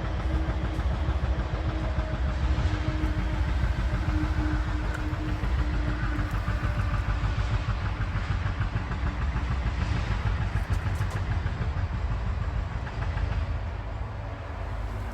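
Engine running at a steady idle, a fast even low-pitched beat, with a faint steady hum over it in the first half.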